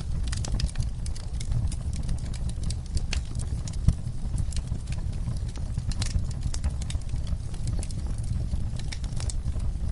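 Crackling fireplace: irregular pops and snaps, one louder snap about four seconds in, over a steady low rumble.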